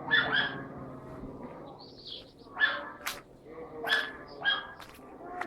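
An animal calling in short, loud, repeated cries, four or five in all.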